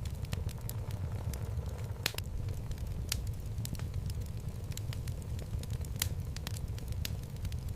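Wood fire burning in a fireplace: a steady low rumble of the flames with sharp, irregular crackles and pops of the logs, the loudest about two and six seconds in.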